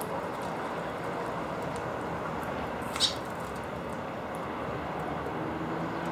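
Steady hum of city traffic with one short, high bird call about halfway through.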